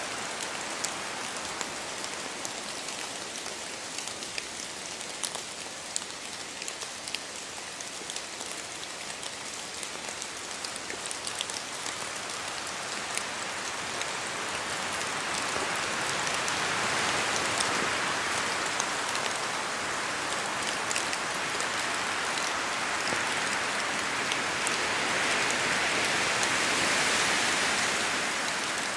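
Steady rain falling through forest trees, with many separate drops ticking on leaves and surfaces. It swells louder twice in the second half.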